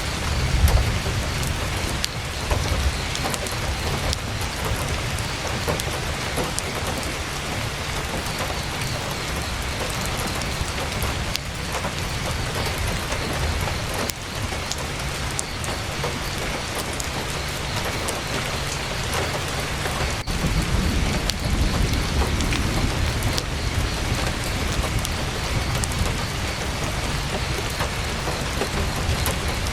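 Heavy rain drumming steadily on a tent's canvas, with scattered sharp crackles from a campfire. Low rumbles swell just after the start and again about two-thirds of the way through.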